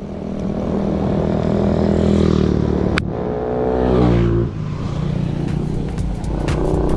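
A motor vehicle's engine approaching and passing close by, its pitch dropping from about three seconds in as it goes past, with a sharp click at the moment it passes. A low rumble runs underneath, and sharp ticks come in over the last second or so.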